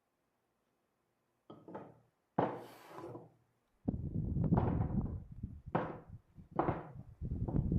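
Wooden knocks and thuds as timber is handled, starting after a second and a half of near silence, with a short hiss and then a busy run of heavy thuds and sharp knocks about a second apart.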